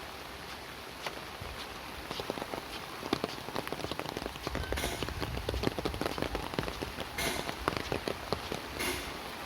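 Rain pattering on a surface, a dense scatter of drops that thickens through the middle and thins out near the end, with a few brief sharper hisses.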